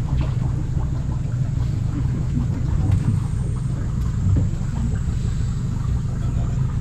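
A tour boat's motor running steadily at low speed: an even, low hum.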